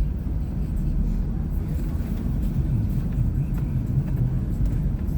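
Suburban SUV on street tires driving slowly through about six inches of snow: a steady low rumble of engine and tires, with faint scattered ticks over it.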